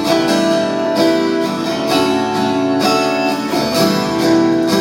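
Acoustic guitar strumming chords in a brief instrumental passage between sung lines of a live song.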